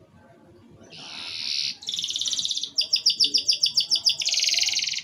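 Domestic canary singing: after about a second of quiet, a string of high, rapid trills, each phrase switching to a new trill, one of them pulsing about nine notes a second.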